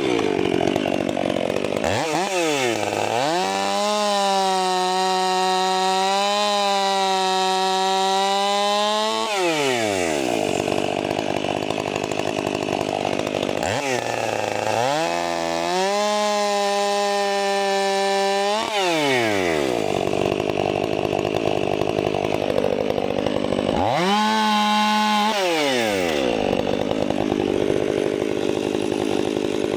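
Chainsaw running at full throttle, cutting through a log of dense shortleaf pine. The engine pitch drops and climbs back about three times as the saw loads up in the wood.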